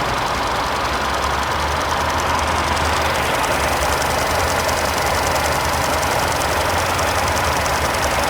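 Hyundai 1.6-litre turbocharged four-cylinder engine idling steadily, with a fast, even ticking over its hum.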